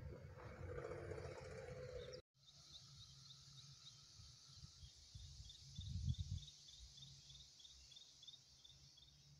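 Faint forest ambience: a steady high hiss of insects and a bird repeating short high chirps about three times a second, over low wind rumble on the microphone with a bump about six seconds in. The sound drops out abruptly for a moment about two seconds in.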